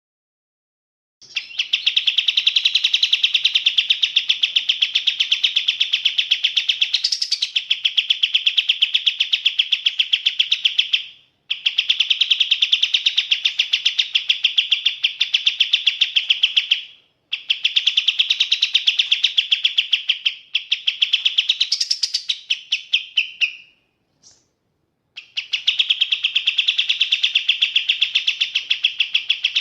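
Kapas tembak bird singing: long runs of rapid, evenly repeated high notes, in bouts of several seconds broken by short pauses.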